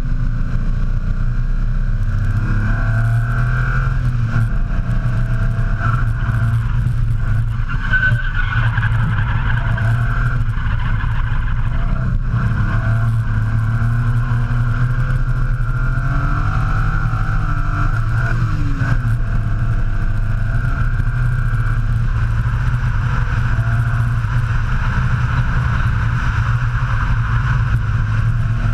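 BMW S38 straight-six in a drift truck running hard, with its pitch rising and falling, over steady tyre squeal through long slides.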